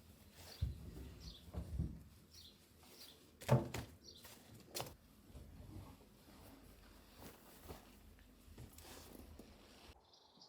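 Soft, scattered knocks and clicks of kitchen handling, the loudest knock about three and a half seconds in, with faint bird chirps behind. Near the end it cuts to crickets chirring.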